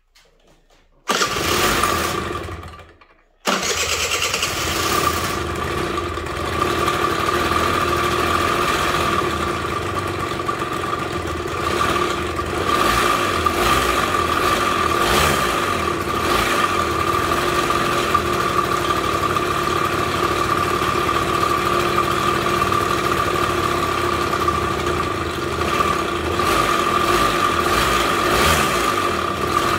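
Suzuki Let's 2 scooter's two-stroke engine being started: a first try of about two seconds fades and cuts off, then it starts again and runs steadily. The engine carries a suspicious extraneous noise that the owner thinks sounds like a bearing, though he finds no play in it.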